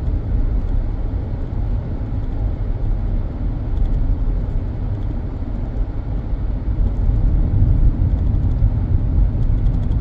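Car driving, heard from inside the cabin: a steady low rumble of road and tyre noise.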